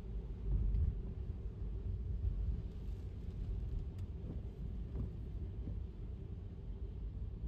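Low, steady road and tyre rumble of an electric car driving on a wet city street, with a faint steady hum over it and a couple of faint ticks about four and five seconds in.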